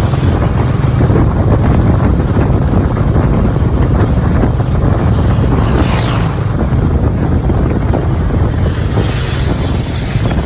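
Wind buffeting the microphone over a steady low rumble, the sound of travelling in an open vehicle. A brief falling whistle about six seconds in.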